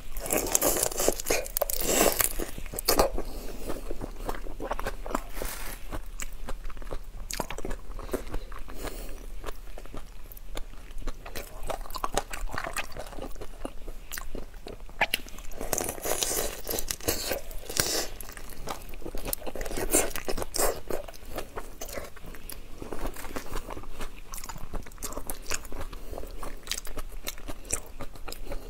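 Close-up biting and chewing of whole raw shrimp, the shells crunching and crackling in repeated bouts of sharp bites, loudest in the first seconds and again past the middle.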